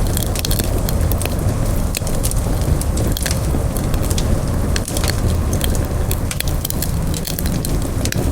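Campfire of burning wood crackling, with many sharp pops scattered over a steady low rumble of flames.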